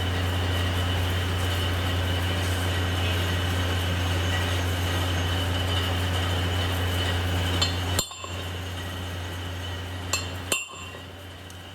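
A workshop machine runs with a steady low hum and cuts off abruptly about eight seconds in, followed by a few sharp metallic clinks.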